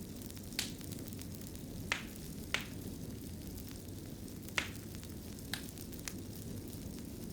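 Wood fire in a fireplace crackling: a steady low rumble of burning with sharp pops and snaps at irregular intervals, the loudest a little after halfway.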